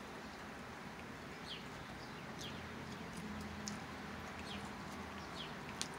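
Small birds chirping outdoors: short, high chirps that drop in pitch, several a second at times, over a steady low background hum.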